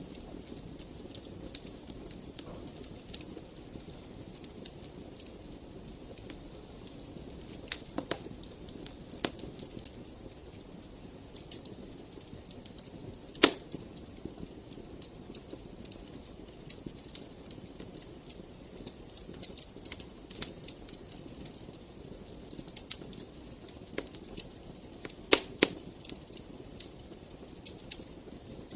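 Wood fire in a fireplace crackling, with irregular sharp pops and snaps over a low steady rumble of the flames; the loudest pop comes about halfway through and a close pair near the end.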